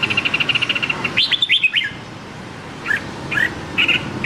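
Red-whiskered bulbul calling: a rapid chattering trill, then a quick phrase of short, falling whistled notes, with a few more short notes near the end.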